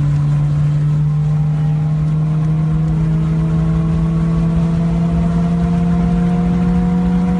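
Toyota Allex ZZE123G's 1.8-litre VVTL-i four-cylinder engine and exhaust pulling steadily under load, the note climbing slowly and evenly in pitch as the car gradually gains speed, over a rough low exhaust rumble.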